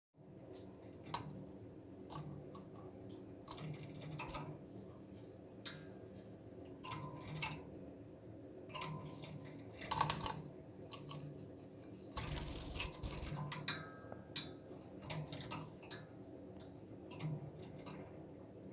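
A pet bird's scattered small clicks and taps, irregular and a few a second, with a few brief soft chirps.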